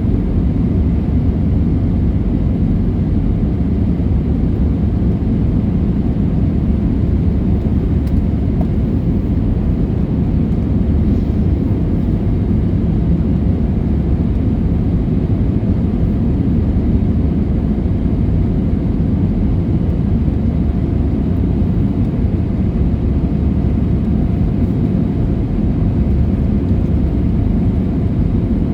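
Steady low rumble of an airliner's jet engines and airflow, heard from inside the passenger cabin, with no change in level.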